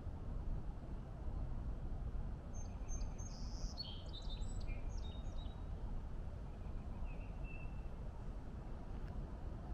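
A songbird gives a quick run of high chirps and short whistles about three seconds in, then one brief whistle later, over a steady low background rumble.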